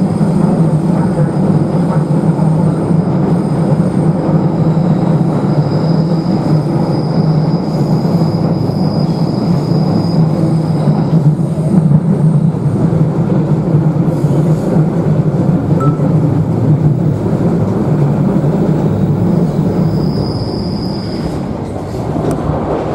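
Echizen Railway electric train running, heard from inside the carriage: a steady low rumble of motors and wheels on the rails. A thin high-pitched squeal rises over it for several seconds around the middle, and briefly again near the end.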